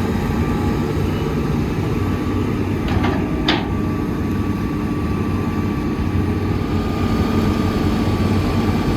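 Heavy earthmoving machinery's diesel engine running steadily, with a faint steady whine above it. Two short metallic clanks come about three seconds in, half a second apart.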